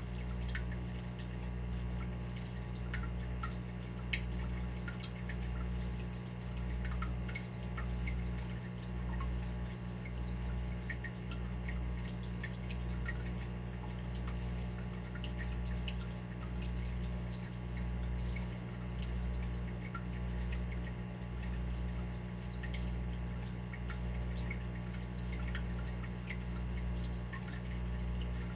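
Water dripping: scattered, irregular small plinks. Under them runs a steady low hum that swells and fades roughly every second or so.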